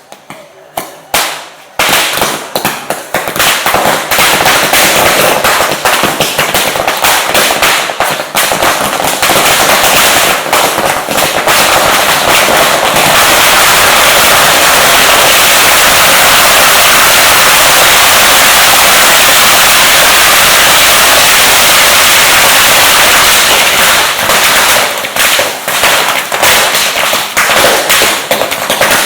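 Firecrackers going off in a loud, rapid barrage: a few cracks, then a dense run of bangs that merges into an unbroken crackle for several seconds before breaking up into separate bangs again near the end.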